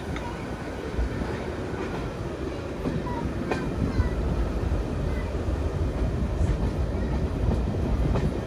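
Train running along the line behind a class 08 diesel shunter, heard from on board the coach: a steady low rumble of wheels on rail with a few sharp clicks and short squeaks.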